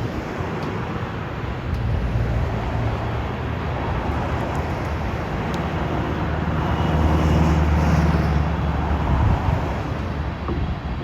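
Diesel locomotive engine running, a low steady drone that grows louder to a peak about seven to eight seconds in, then eases off.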